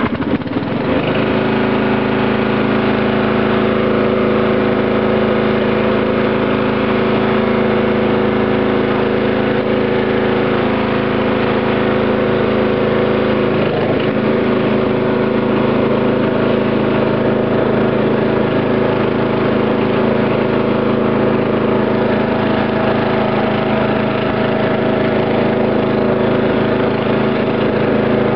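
Dynamark riding tractor's 12-horsepower Briggs & Stratton engine starting up and settling into steady running within about a second, with a slight change in its note about fourteen seconds in.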